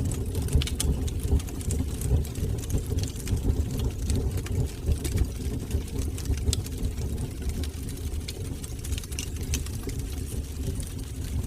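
Fire burning in a fireplace: a steady low rumble of the flames with scattered small crackles and pops throughout.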